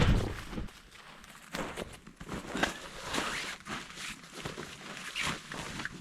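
Synthetic sleeping bag with a taffeta shell rustling as it is handled, in irregular scrapes and swishes, with a low thump at the very start.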